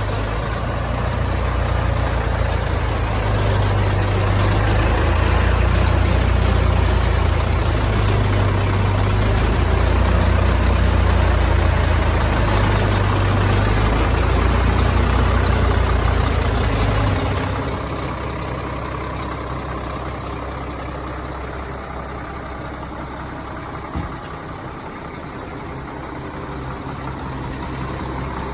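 Engines of a 1999 Volvo leaf vacuum truck running steadily and heavily. About two-thirds of the way through the deep, loud running drops away, leaving a quieter engine still running, and a single sharp click comes near the end.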